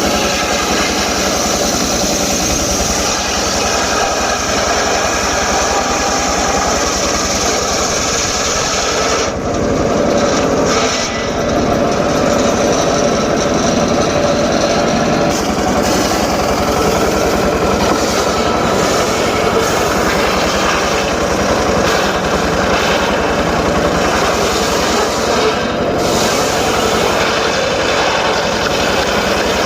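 Homemade circular saw rig running steadily as it cuts teak stock, with a loud, continuous machine drone. The sound briefly thins about nine to eleven seconds in, and again for a moment near the end.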